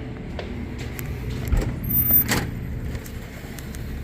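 Steady low hum of an engine or motor running. About two seconds in there is a short, louder clatter with a brief high squeak.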